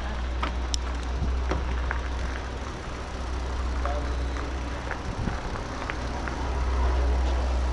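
Steady low wind rumble on the microphone during an outdoor ride, with a noisy hiss and scattered small clicks and rattles from the trail.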